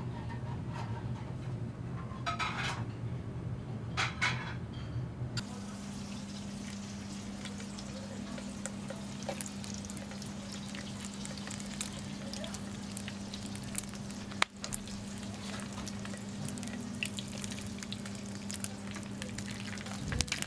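Food sizzling and crackling in hot oil, a dense run of fine pops over a steady low hum.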